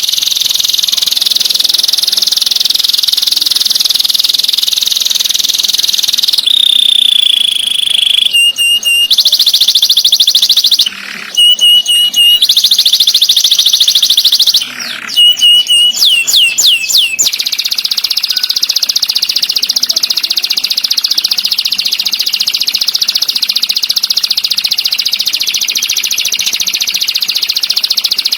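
Recorded songbird song, high-pitched and loud: a fast, dense trill, broken about a third of the way in by a held whistled note and a run of short separated phrases ending in quick downward-sweeping notes, before the fast trill starts again.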